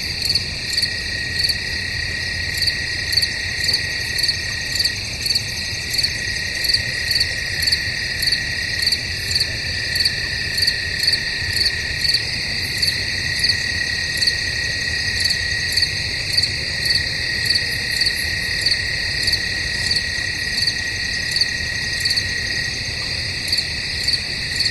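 Night crickets chirping in woods: a steady high trill underneath, with a chorus of regular, pulsing chirps about one and a half times a second on top.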